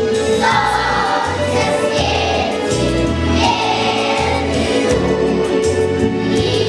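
A children's choir singing a song together over instrumental accompaniment with a bass line that moves note by note.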